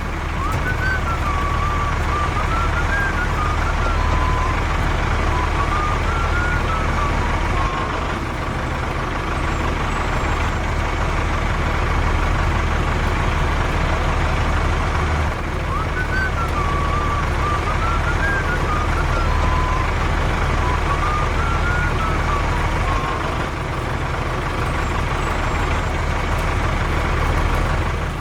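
Steady running of a vehicle engine with a strong low hum, unchanging throughout, with a faint whistled tune over it near the start and again about halfway through.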